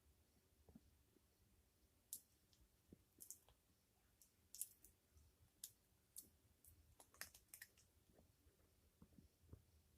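Faint, irregular short high clicks and rustles, scattered from about two seconds in: an African grey parrot preening, nibbling and drawing its feathers through its beak.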